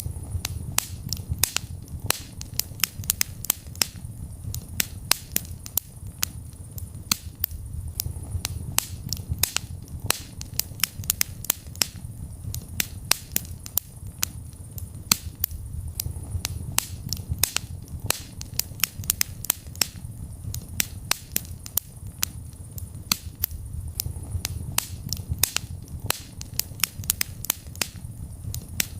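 Wood fire burning in a fireplace: dense, irregular crackles and pops, several a second, over a low steady rumble of the flames.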